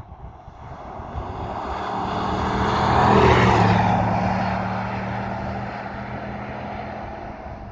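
RAM 1500's 5.7-litre HEMI V8 pickup driving past. A low, steady engine note and a rushing sound grow louder to a peak about three seconds in, then fade away.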